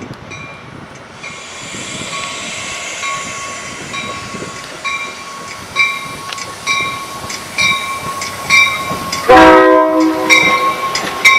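A train running past close by, its noise building from about a second in, with a ringing tick repeating about once a second. About nine seconds in, the locomotive gives one short, loud horn blast right alongside.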